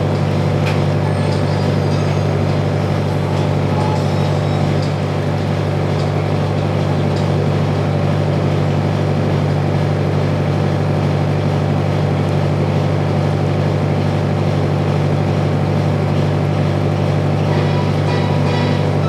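Sightseeing boat's engine running steadily, a low even drone heard from inside the passenger cabin.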